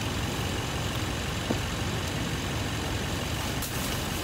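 Vehicle engine idling steadily, with a short click about a third of the way in and a brief rustle near the end.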